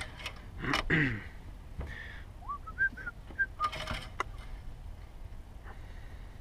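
A small bird chirping a quick series of short rising notes in the middle, over clicks and rag rustling as the engine dipstick is pulled and wiped. A brief low falling sound comes about a second in.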